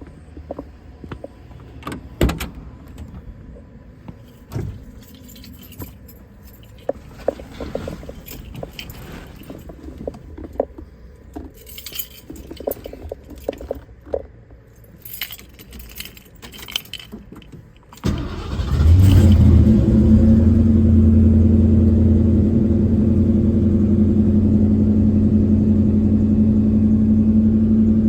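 Light clicks and rattles, then about 18 seconds in the V8 of a 1970 Ford Mustang Mach 1 starts from cold and settles into a loud, steady idle.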